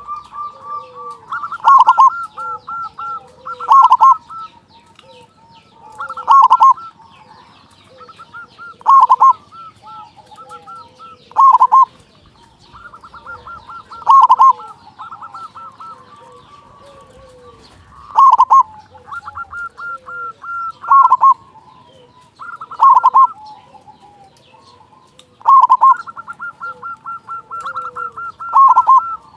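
Zebra dove (perkutut) cooing. A loud, short coo phrase comes about every two to three seconds, with softer runs of quick, even notes between them.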